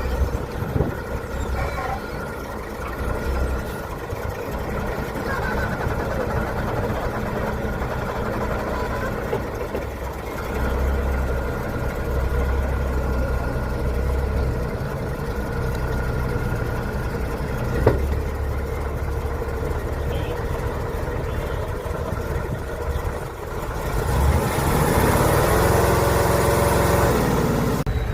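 Heavy off-road trial truck's engine running and working, rising and falling in level. A single sharp knock about two-thirds of the way in, then a loud hiss with the engine climbing in pitch near the end.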